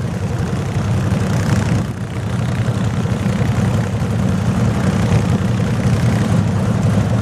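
Garden tractor engine running steadily, a low, even drone.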